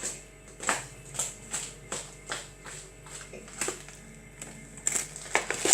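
A quick, uneven series of sharp clicks or taps, about two to three a second, the loudest near the end, over a faint low steady hum.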